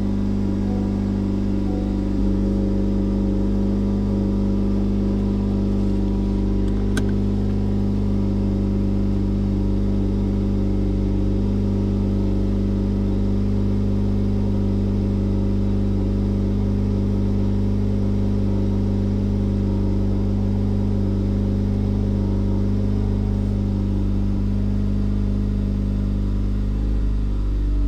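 Honda FL5 Civic Type R's 2.0-litre turbocharged four-cylinder idling steadily just after a cold start, through its AWE Touring exhaust, heard from inside the cabin.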